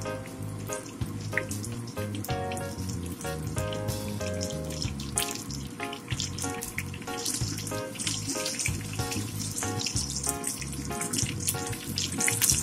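Cabbage and carrot vegetable fritters frying in hot canola oil, sizzling and crackling, louder in the second half. Background music with a steady beat plays over it.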